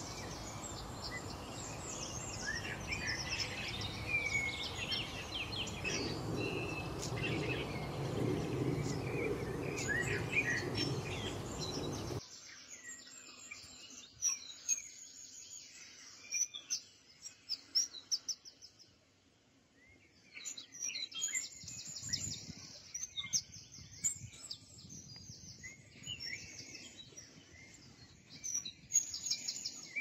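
Many birds chirping and singing together over steady background noise. About twelve seconds in it cuts abruptly to a quieter recording with sparser, higher chirps.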